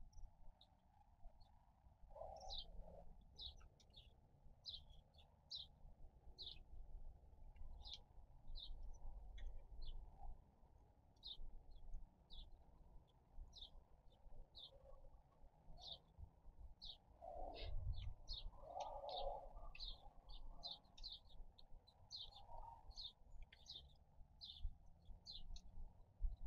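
Small birds chirping faintly: short high chirps repeat about twice a second, over a faint low rumble.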